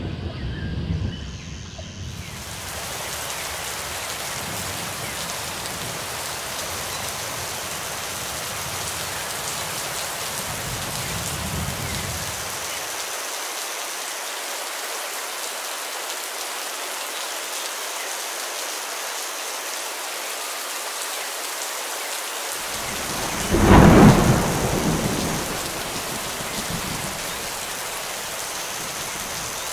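Steady rain falling, a continuous even hiss. Low thunder rumbles through the first part, and a louder roll of thunder comes about three-quarters of the way in.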